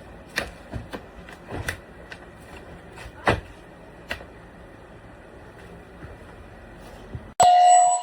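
Bissell PowerClean 200W cordless stick vacuum running steadily, with scattered knocks and bumps as it is worked over the floor. Near the end the running noise cuts off suddenly and a brief, loud sound made of several steady tones takes over.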